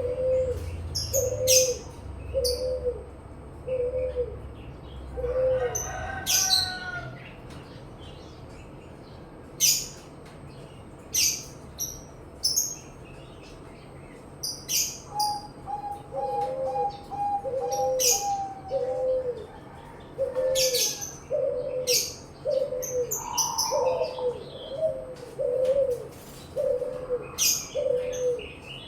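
Puter (Barbary dove) cooing in quick runs of short, evenly spaced coos, about one every 0.7 s. The cooing stops for several seconds in the middle, then starts again. Sharp high chirps of other small birds are scattered through it.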